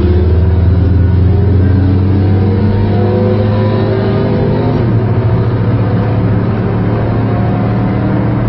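Vehicle engine pulling, its pitch climbing steadily for about four and a half seconds, then falling away and running steady.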